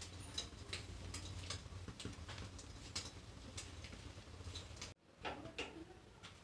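Egg-coated bread frying in oil in a pan, crackling with many irregular small clicks over a low steady hum. The sound cuts off suddenly about five seconds in, followed by a few knocks.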